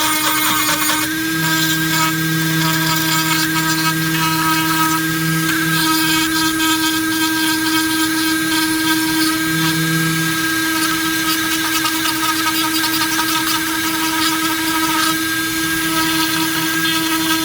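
Dremel rotary tool on a flex shaft running at a steady high-pitched whine while its bit carves into a pine board, with a rough, scratchy grinding that comes and goes as the bit bites into the wood.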